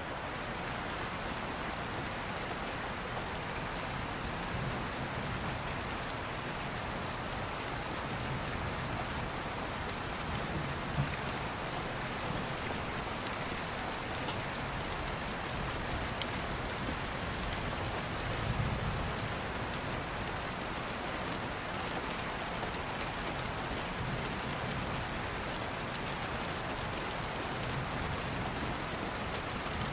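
Steady rain, with a few sharp crackles from an open wood fire.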